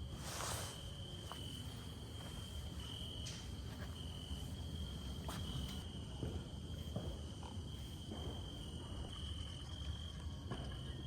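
Night insects trilling steadily on one high note, the trill swelling and fading in short stretches, over a low rumble with a few faint clicks.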